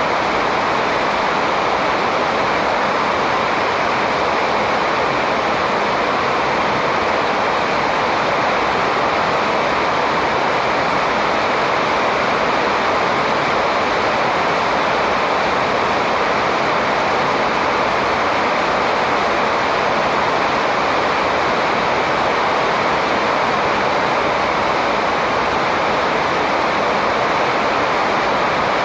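Steady rushing water, an even unbroken noise with no distinct bird calls standing out.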